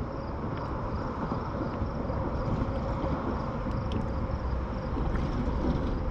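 Steady outdoor background noise, a low, even rush with a few faint ticks and no distinct event.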